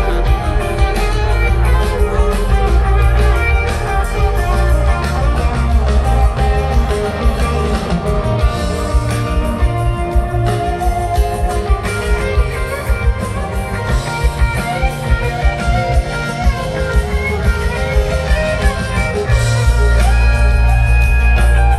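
Live rock band playing an instrumental jam, with electric guitar lines over bass and drums. The bass swells heavier near the end.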